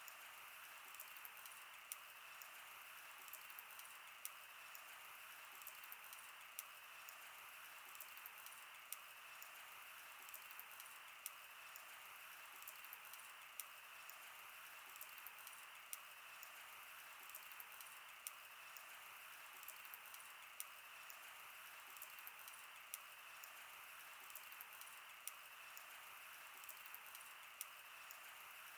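Wood fire crackling: sharp, irregular pops and snaps, several a second, over a faint steady hiss.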